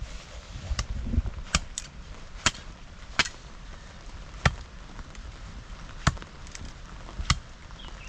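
Sharp knocks, about eight at irregular spacing roughly a second apart, over a steady hiss.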